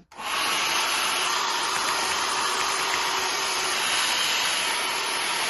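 Handheld hair dryer switched on and blowing steadily, a loud even rushing noise, used to dry a freshly applied thin layer of wig glue faster.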